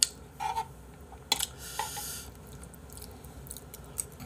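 A person eating ramyeon close to the microphone: chewing and mouth noises, with a few short sharp clicks and a brief hissy sound about a second and a half in.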